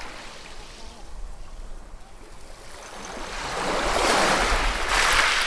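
Ocean waves breaking and washing on a shore. The surf is low at first, then a wave builds about three seconds in and is loudest near the end.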